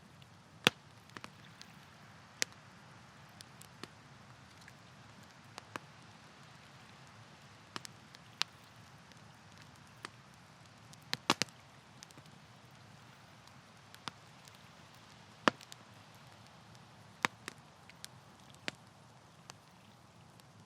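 Campfire wood crackling and popping: sharp, irregular snaps over a soft steady hiss of burning.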